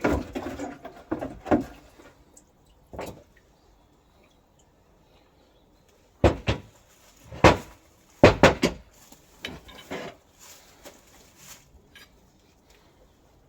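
A series of knocks and clatters from metal parts being handled in a workshop. There is a short burst at the start, a lull of about three seconds, then several louder bangs with lighter knocks after them.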